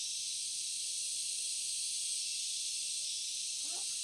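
Steady high-pitched insect chorus, an unbroken shrill hiss. A brief faint voice comes near the end.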